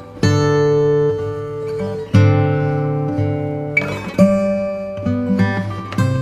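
Background music on acoustic guitar: strummed chords that change about every two seconds.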